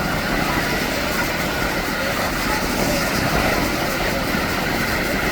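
Steady, rushing drone of a Canadair CL-415 water bomber's twin turboprop engines in flight, heard at a distance, with no breaks or sudden events.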